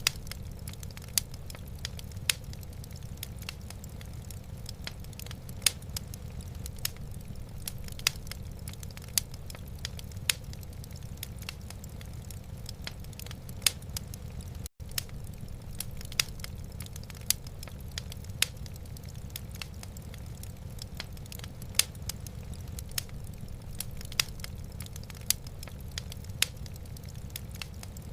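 Wood fire in a fireplace crackling, with sharp irregular pops about once or twice a second over a steady low rumble. There is a split-second dropout about halfway through.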